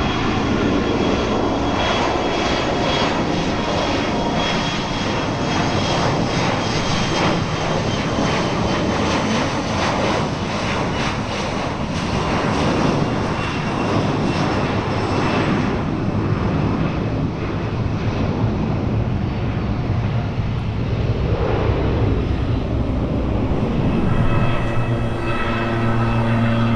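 Airliner engine noise, loud and steady, with a faint high whine. Near the end a steady low hum joins in.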